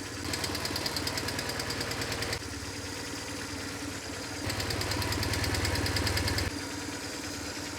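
BMW R1150GS air-cooled boxer twin running at idle, twice picking up louder with a quick, even beat for about two seconds each, after the first second and again past the middle. It runs evenly without the sharp valve tapping, its loose exhaust valve clearances now adjusted.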